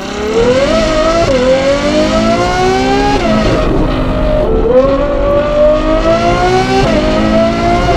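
Ferrari 812 GTS's naturally aspirated 6.5-litre V12 breathing through a Novitec sport exhaust (sport cats, cross pipe and valved rear muffler) under hard acceleration. The revs climb and then fall sharply at three upshifts, about one second in, about three seconds in and near the end, with a short steadier stretch in the middle.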